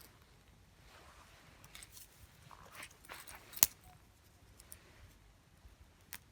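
Small wood fire crackling in a compact fire pit, with scattered faint crackles and one sharp, loud pop a little over halfway through.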